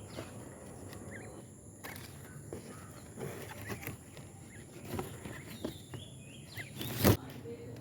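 Faint outdoor background with a few short, thin bird chirps scattered through, and one sharp knock about seven seconds in.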